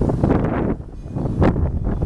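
Wind buffeting the microphone in uneven gusts, with a brief lull about three-quarters of a second in and a stronger gust around a second and a half in.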